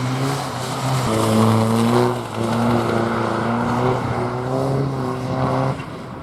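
Race car engine running hard at high revs, with brief breaks at gear changes about a second in, past two seconds and near five seconds. The sound cuts off sharply near the end.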